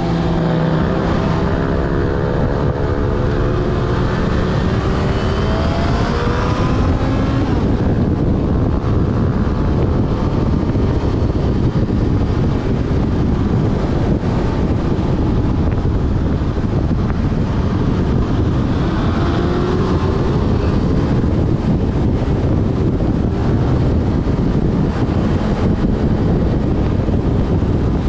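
Yamaha Fazer FZ6S inline-four engine running under way, its note climbing as it accelerates over the first several seconds and again about two-thirds of the way through, under heavy wind rush on the microphone.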